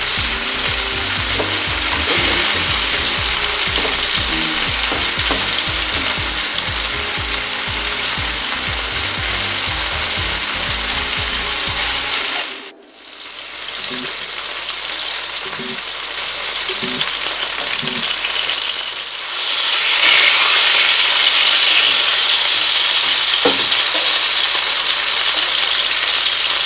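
Chicken breasts sizzling as they fry in butter and olive oil in a nonstick pan, with a few light clicks of tongs turning and lifting the pieces. The sizzle cuts out abruptly about halfway through, returns more quietly, then grows louder again for the last few seconds.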